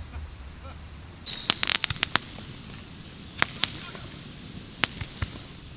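Irregular sharp clicks and taps of objects being handled, with a brief rustle, over a low steady background noise. The taps come in a quick cluster about one and a half seconds in, then singly and in pairs.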